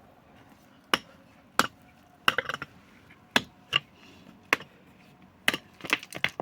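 A series of about eight sharp knocks at irregular intervals, a few of them followed by a quick clatter of smaller knocks.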